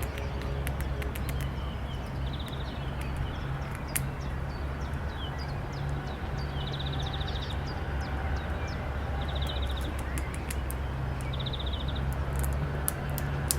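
Outdoor animal sounds: a few short, high rattling calls, bird-like, and scattered sharp clicks over a steady low rumble.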